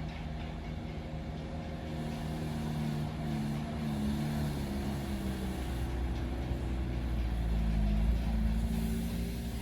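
Heavy truck's diesel engine running under load, with a deep rumble that swells to its loudest about eight seconds in.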